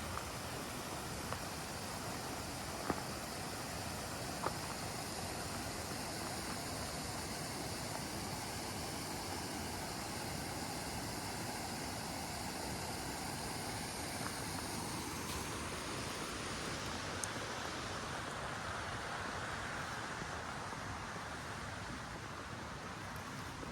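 Steady rushing outdoor noise with a few faint clicks; a broad swell rises and fades in it from about fifteen to twenty-two seconds in.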